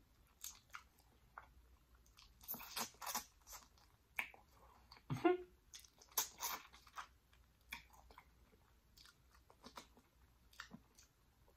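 Close-up wet chewing, lip-smacking and sucking as a person eats sauced jerk pork tail off the bone by hand, in irregular clusters of small smacks and clicks. A short hum of approval comes about five seconds in.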